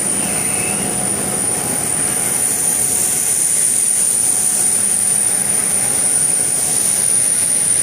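Steady rushing noise of a jet airliner's engines and airflow, with a thin high whine held over it.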